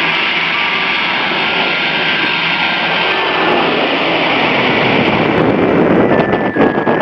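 Airplane engine noise, loud and steady, from an aircraft flying in with its landing gear lowered. About five seconds in, the sound turns rougher and lower, with a few sharp knocks.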